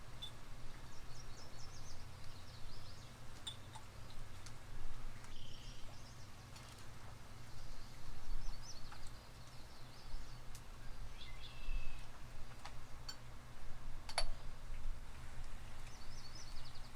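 Quiet outdoor ambience: a steady low rumble, with short high bird twitters several times and a few sharp clicks, the loudest about fourteen seconds in.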